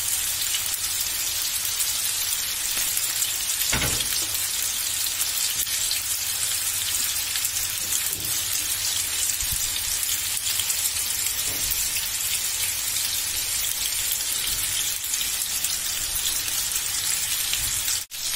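Chicken skewers frying in hot oil in a frying pan: a steady, high sizzling hiss. A few faint low knocks come and go, and the sound breaks off for an instant near the end.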